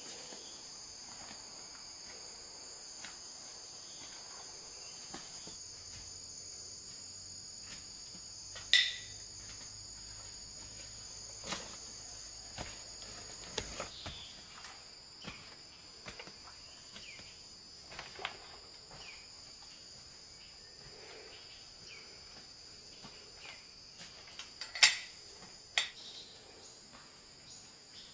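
A steady, high-pitched chorus of insects chirring, with scattered short knocks and clicks. The two sharpest knocks come about nine seconds in and again near twenty-five seconds.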